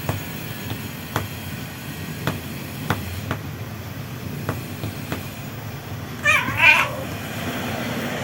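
A cat gives one drawn-out, wavering meow about six seconds in, over a steady low rumble with a few faint ticks.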